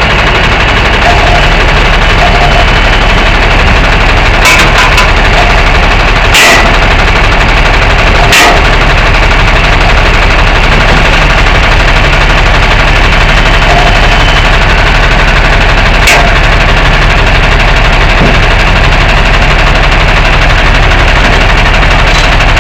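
Tow truck engine running steadily with a loud, even drone. Four sharp clunks cut through it, the last one a good while after the first three.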